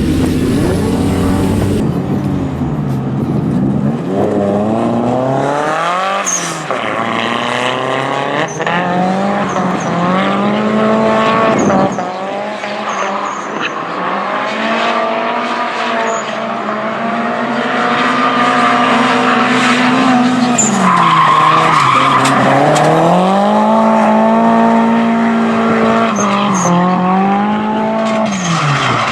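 Drift car engine held at high revs, its pitch repeatedly dropping and climbing back as the throttle comes off and on, with tyres squealing as the car slides.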